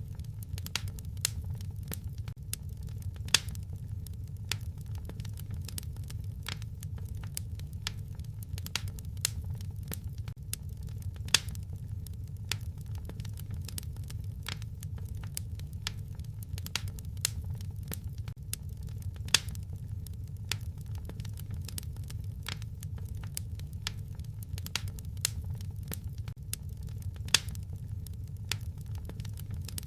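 Wood fire crackling, with frequent irregular snaps and a few louder pops over a steady low rumble.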